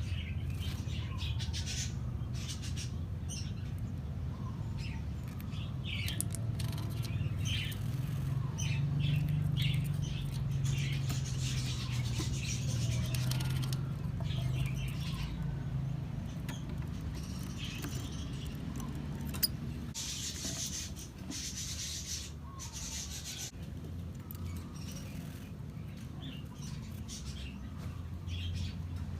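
Lovebirds making short, scattered chirps and brief scratchy noises, over a steady low hum.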